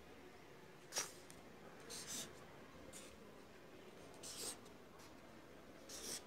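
Pen writing on paper, faint: a single sharp click about a second in, then three short scratchy strokes spaced a couple of seconds apart, as when marking answers on a practice test.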